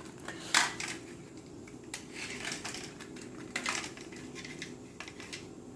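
Scattered light clicks and plastic clatter from handling small RC toy cars.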